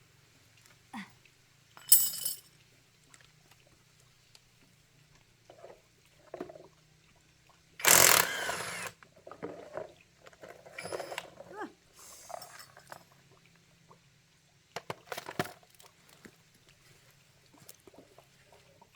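Hand tools and metal parts clinking, knocking and scraping during motorbike repair work, in scattered short bursts. The loudest is a harsh clatter about a second long, eight seconds in.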